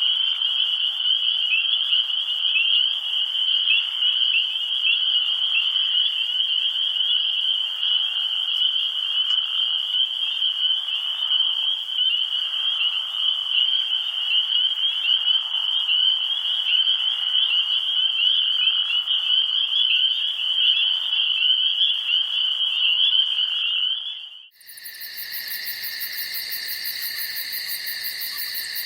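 A dense chorus of frogs calling, a steady trill of overlapping calls. About four seconds before the end it cuts off abruptly, and a different steady, high, pulsing buzz takes over.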